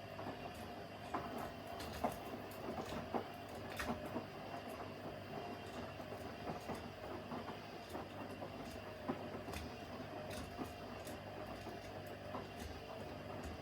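Front-loading washing machine in its wash phase: a steady motor whine, with frequent irregular clicks and knocks as the laundry tumbles in the drum.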